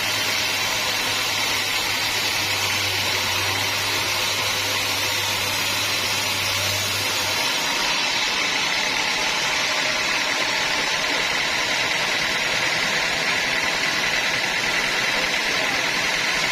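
Sawmill machinery running steadily. A low hum underneath drops out about seven seconds in.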